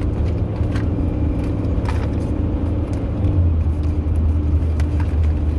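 Steady low drone of a car's engine and road noise from inside the moving vehicle, with a few short, light clicks scattered through.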